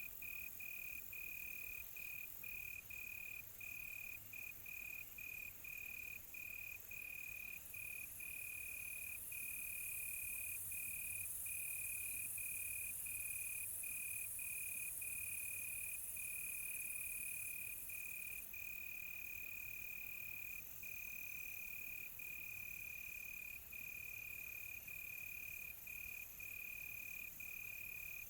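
Crickets chirping at night: one steady high trill broken by short gaps about twice a second, over a fainter high hiss of insects that swells in about a third of the way through and drops back after about ten seconds.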